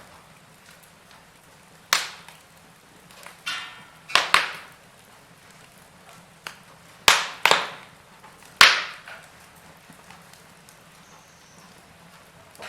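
Wood fire in a fireplace crackling: several sharp pops, irregular and clustered in pairs, the loudest about two-thirds of the way through, over a faint steady background.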